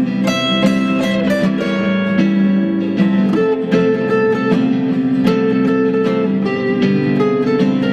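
Acoustic guitar playing a folk tune, picked notes coming several a second over ringing chords.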